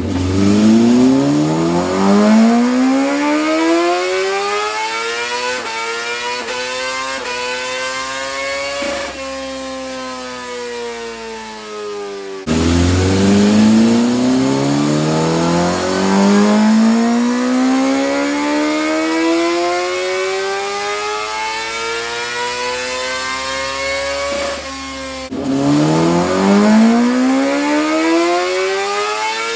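Suzuki GSX-R1000R inline-four engine making wide-open-throttle pulls on a chassis dyno during ECU tuning: three runs, each climbing steadily in pitch from low revs to high revs. After the first run the revs wind down as the throttle closes, and the sound jumps abruptly back to low revs before each later run.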